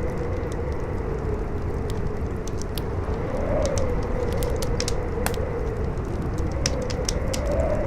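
Howling wind, a moaning pitch that swells and falls every few seconds over a steady rush, layered with a crackling fire giving scattered sharp pops and snaps.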